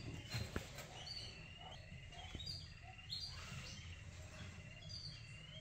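Faint bird chirps: a string of short high notes over a low steady hum.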